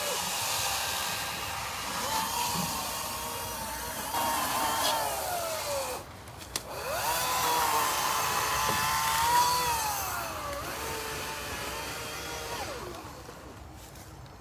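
Battery-powered electric saw cutting tree limbs. Its motor whine drops in pitch as it bogs down in the wood and rises again when it frees up. It stops briefly about six seconds in, then starts again.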